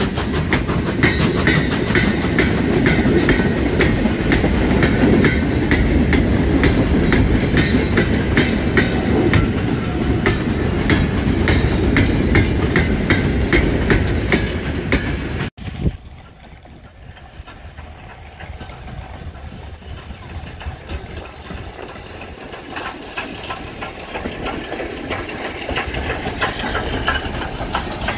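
Train rolling past, its wheels clicking rapidly over the rail joints. About halfway through the sound cuts off suddenly to a much quieter train sound, which grows louder again with more wheel clicks near the end.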